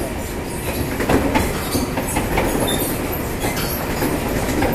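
Taiwan Railways train running, heard from inside the carriage: a steady rumble of wheels on rails with irregular clicks and knocks.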